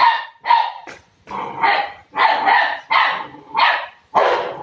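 Dogo Argentino puppy barking in a quick series of about eight short, loud barks.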